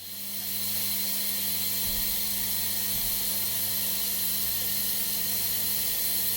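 Steady, loud hiss that starts suddenly and holds, over a low hum and a thin high whine from a running machine.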